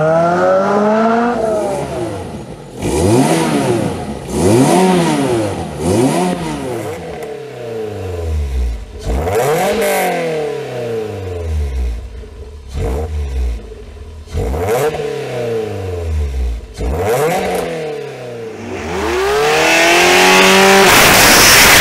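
Lotus Elise/Exige four-cylinder engines: one pulls up through the revs under acceleration, then an engine is blipped again and again, each rev rising sharply and dropping away. Near the end a hard rev turns into a loud, steady rush of noise.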